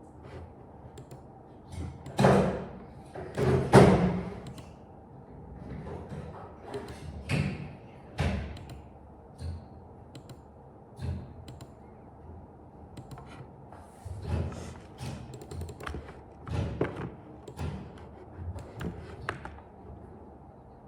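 Irregular knocks and thuds, two louder ones about two and four seconds in, with smaller taps scattered through.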